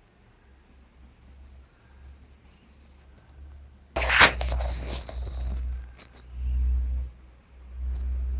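Pencil shading on drawing paper: faint strokes at first, then about four seconds in a sudden loud burst of scratchy strokes lasting about a second and a half. Two low rumbles follow, near the end.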